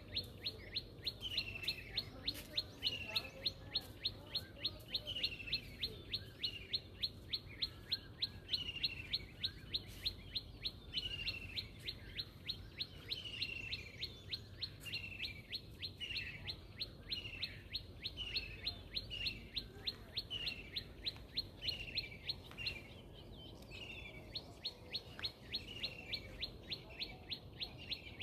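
Small birds chirping: a fast, even run of short high chirps, about three a second, over a downward-sliding chirp repeated roughly every second.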